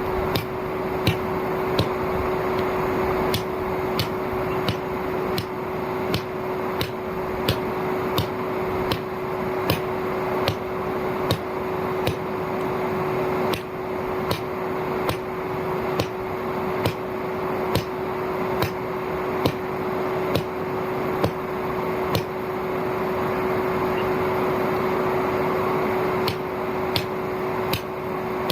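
Old vacuum cleaner motor running steadily as the forge's air blower, a constant hum with one steady tone and a rush of air, with sharp ticks about once or twice a second on top.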